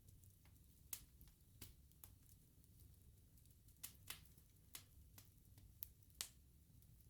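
Faint wood bonfire crackling: sharp, irregular pops and snaps from the burning logs over a low steady rumble.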